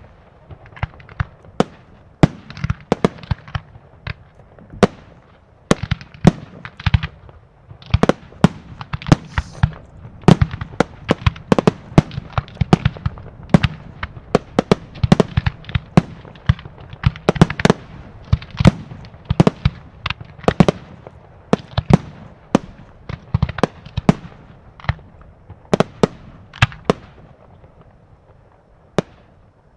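Professional aerial fireworks shells launching and bursting in quick, irregular succession, several sharp bangs a second at the busiest, with a short lull about four seconds in and fewer bangs near the end.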